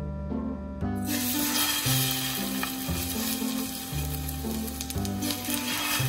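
Egg batter with oyster mushrooms sizzling in hot oil in a frying pan, the sizzle starting suddenly about a second in as the batter goes into the pan.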